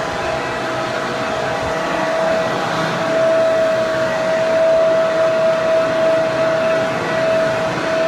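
Electric hair dryer running steadily: an even rush of blown air with a steady motor whine over it.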